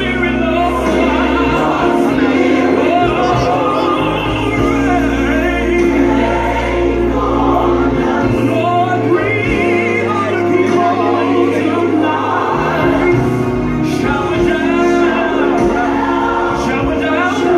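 Gospel worship song playing: voices singing over sustained chords and a steady bass line.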